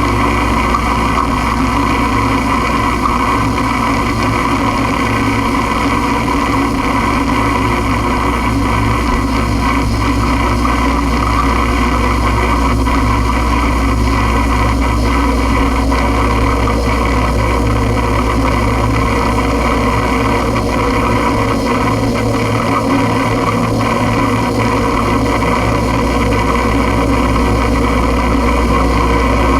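Experimental noise music: a loud, unbroken drone of low hum, steady layered tones and hiss that barely changes.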